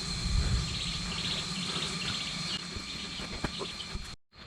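Jungle insects chirping: a steady high drone with short pulsed trills repeating over it. A brief low rumble sounds in the first half-second, and the sound cuts off abruptly just before the end.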